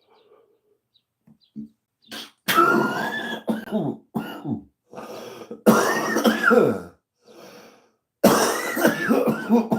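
A man coughing hard in three rough, throaty fits, the first about two and a half seconds in, after taking a hit from a joint.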